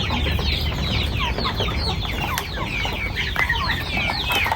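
Flock of chickens clucking and chirping, many short falling calls overlapping without pause, over a low steady rumble.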